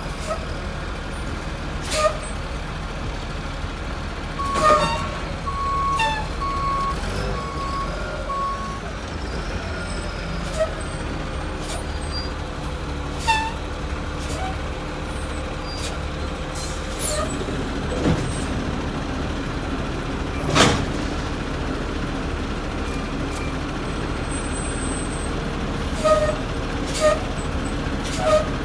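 1989 WhiteGMC Xpeditor refuse truck running with a steady low rumble, with sharp knocks and bangs scattered throughout as it works the dumpsters. A reversing alarm beeps about five times between about four and eight seconds in, and a steadier low pitch from the engine or hydraulics comes in a little past halfway.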